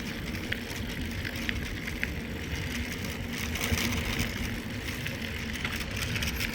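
Mountain bike rolling steadily along the trail, with wind rumbling on the handheld phone's microphone and a few faint ticks.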